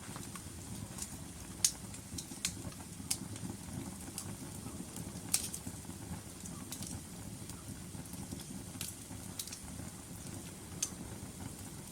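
Wood fire of burning logs crackling: irregular sharp pops and snaps, a couple of them louder, over a steady low rumble of the flames.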